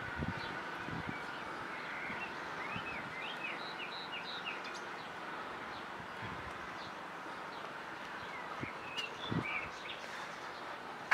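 Small songbirds chirping and trilling in short clusters of quick notes, over a steady outdoor background hum.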